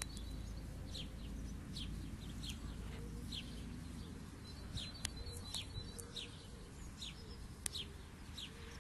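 Small birds chirping: short, quickly falling high notes repeated every second or so, over a steady low rumble, with two sharp clicks in the second half.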